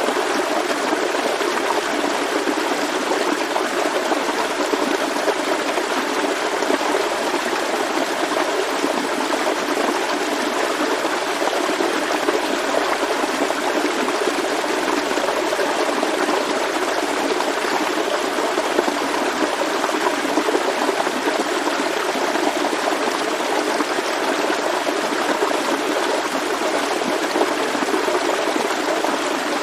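A stream of water flowing steadily, an even, unbroken sound of running water with no pauses or changes.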